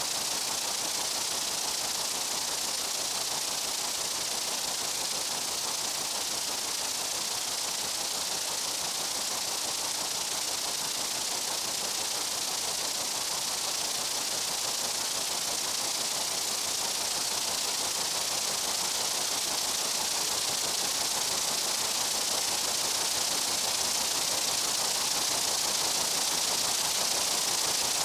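Dense chorus of meadow insects making a steady, even, high-pitched hiss-like buzz that does not break or change.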